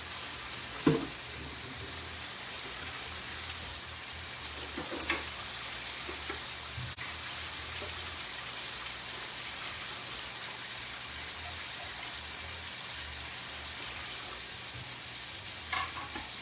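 Food frying in hot oil in a pan, a steady sizzle. A few knocks, the sharpest about a second in.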